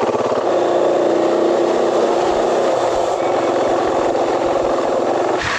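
KTM 500 single-cylinder motorcycle engine running under way, its pulsing note smoothing into a steady hum about half a second in, with steady wind rush over it.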